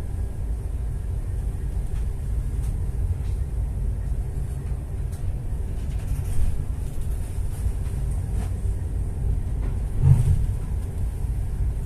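A boat's engine running steadily on board, a low rumble, with a short louder thump about ten seconds in.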